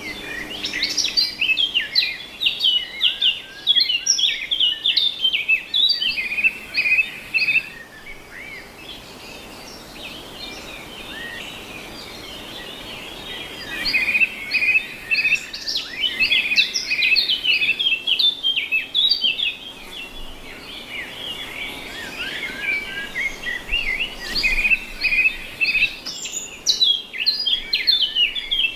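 Many songbirds chirping and singing at once in quick, overlapping trills and calls, with a quieter spell of fainter chirping partway through before the chorus picks up again.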